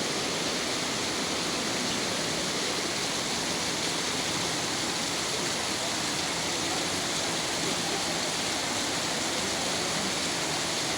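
Heavy rain falling, a dense, steady hiss that holds an even level throughout.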